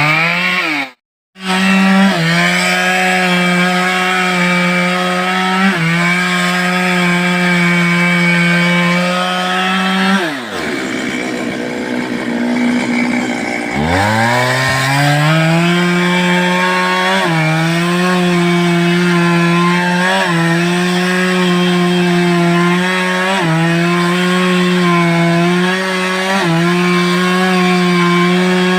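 Stihl two-stroke chainsaw running at high revs cutting through a wooden block, its pitch dipping briefly every few seconds under load. About ten seconds in the revs fall away to idle, then climb back up to full speed about four seconds later. There is a sudden one-second gap near the start.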